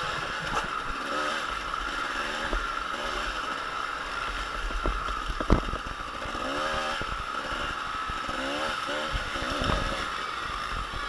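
Motocross dirt bike engines running on the track, their pitch rising and falling again and again as the riders rev and back off. A sharp knock about five and a half seconds in.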